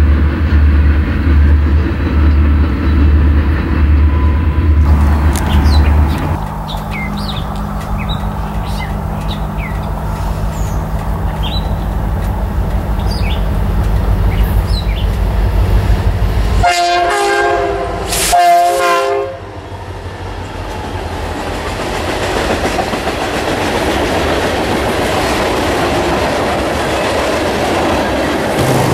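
Loaded freight cars clattering in a steady rhythm over the rail joints, then the steady low drone of an approaching BNSF freight led by EMD SD40-2 and SD60M diesel locomotives. About seventeen seconds in the lead locomotive's chime horn sounds two blasts, a long one then a short one, followed by a rising rush of the train passing.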